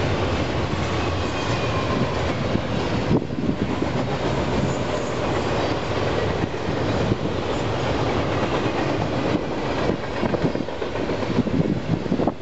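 Double-stack container well cars rolling past: a steady rumble and clatter of steel wheels on the rails. Faint wheel squeal can be heard in the first few seconds.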